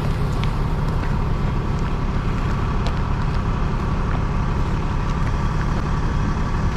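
Truck engine idling steadily with a low, even drone, most likely the tow truck parked at the roadside.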